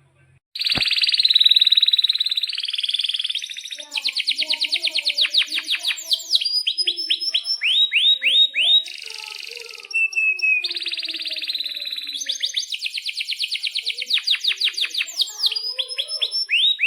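Domestic canary singing a long, continuous song: fast rolling trills alternating with rapid series of sweeping chirps. The song starts with a click about half a second in.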